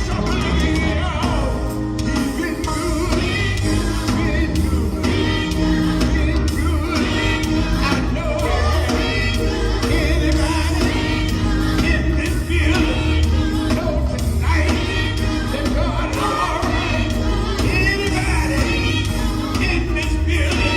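Live gospel group singing, voices over band accompaniment with a steady pulsing bass.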